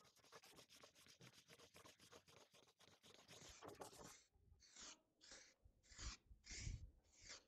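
Faint hand scraping strokes on a hard surface: rapid and close together at first, then about four seconds in settling into a steady back-and-forth of about two strokes a second.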